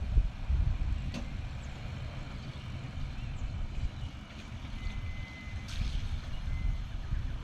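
Low rumble of a vehicle or wind, with a reversing beeper sounding about 5 s in: one long high beep and a shorter one about a second later.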